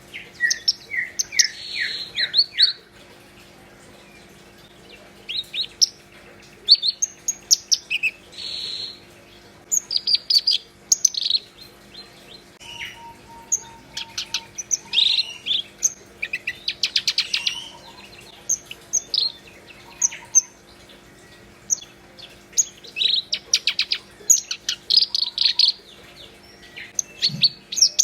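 Black-browed reed warbler in full song: phrases of rapid, varied chirps and trills, with short pauses between them.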